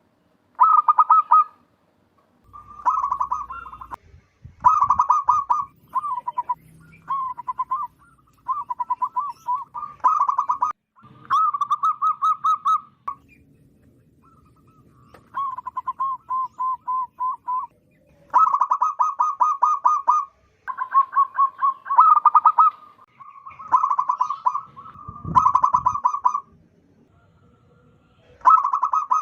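Zebra dove (perkutut) cooing: a run of fast, stuttering coo phrases, each a second or two long, repeated with short pauses between them. The call is loud and carrying, the kind used as a lure call for the species.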